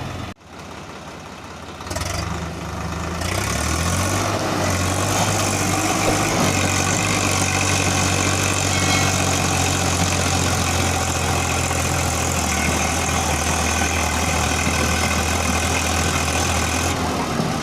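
Heavy diesel engine working hard under load, revving up about two seconds in and then running loud and steady, easing off near the end.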